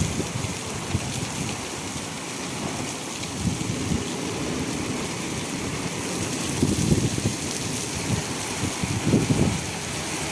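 Heavy rain falling steadily, with brief low rumbles rising out of it a few times, strongest about two-thirds of the way through and near the end.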